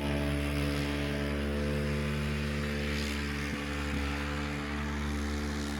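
Vehicle engine running at a steady speed, a constant drone that neither rises nor falls.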